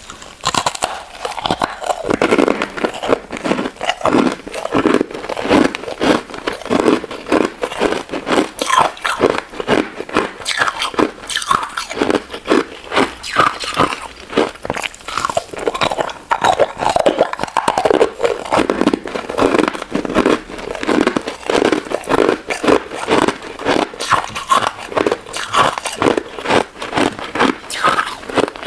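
Close-up crunching and chewing of a crunchy golden crystal ice dessert with citrus jelly pieces, a rapid, continuous run of crisp bites.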